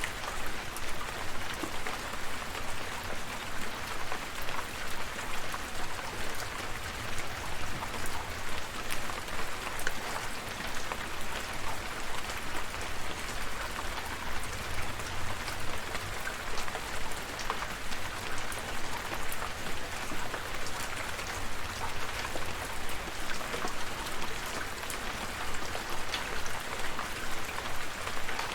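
Steady rain, with many small drops ticking on a surface over an even hiss.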